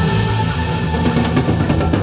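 A live band with a full drum kit, playing the closing bars of a song. Sustained notes ring over the drums, and the drum hits get busier about a second in.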